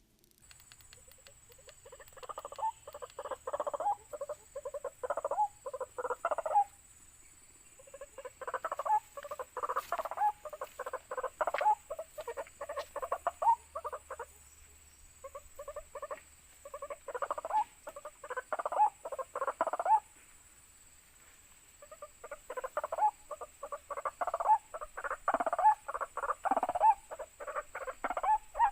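White-breasted waterhen calling: rapid runs of repeated croaking notes in four bouts, each a few seconds long, with short pauses between them.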